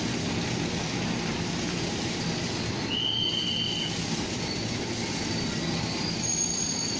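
Diesel-hauled passenger train approaching along the station track at low speed: a steady rumble, with a short high-pitched squeal about three seconds in and fainter high squeals near the end.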